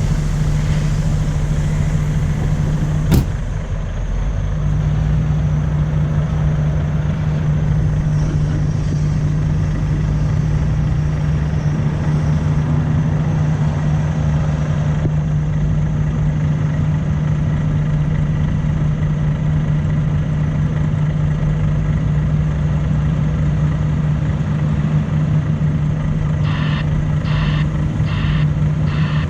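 Heavy diesel truck engine idling steadily, with a single sharp click about three seconds in. Near the end, a run of short beeps about twice a second, like a reversing alarm.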